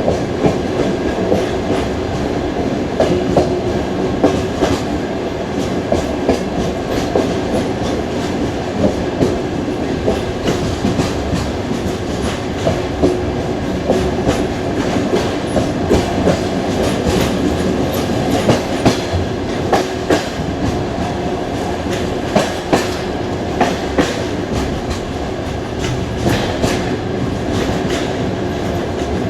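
Passenger train carriage running on the rails, a steady rumble with frequent sharp, uneven clacks of the wheels over rail joints, heard from inside the carriage.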